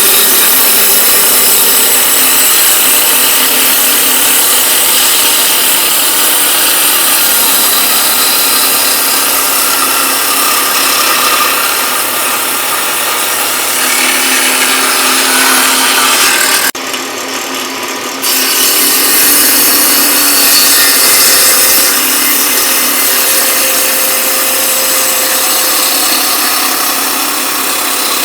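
Woodworking power tool cutting or sanding pine 2x4 stock: a loud, steady grinding noise. It drops out briefly about 17 seconds in and then carries on.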